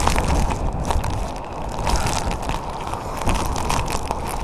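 Typhoon-force wind buffeting a phone's microphone: a continuous low rumbling with rapid crackling pops.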